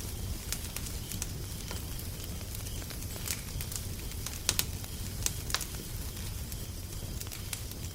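Wood fire crackling: irregular sharp pops and snaps, a few louder ones about halfway through, over a steady low rumble.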